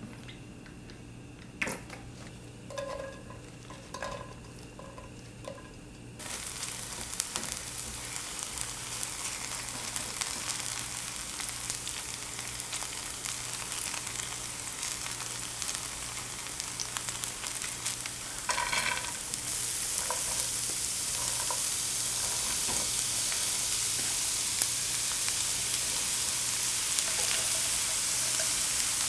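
A few light knocks, then food starts sizzling in a hot frying pan a few seconds in. The sizzle holds steady and grows louder past the middle.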